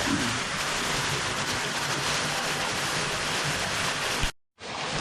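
Small forest waterfall splashing into a creek, a steady rushing of falling water. It breaks off in a brief silent gap near the end, then carries on as before.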